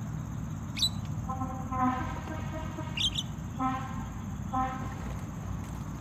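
Birds calling: a few short, sharp whistles that drop in pitch, and three nasal notes each held on one pitch, the first lasting nearly a second.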